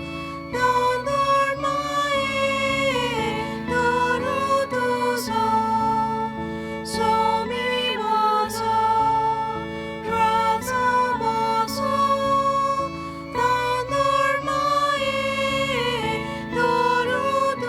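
A church hymn with singing and instrumental accompaniment, moving from note to note with a light regular beat.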